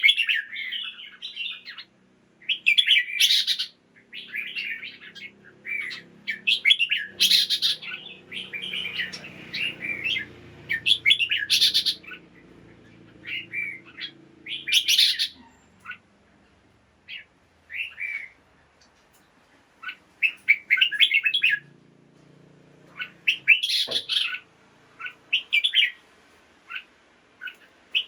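Red-whiskered bulbul song: short bursts of bright chirping phrases with pauses between them, quieter for a few seconds past the middle. A sharp click comes about three-quarters of the way through.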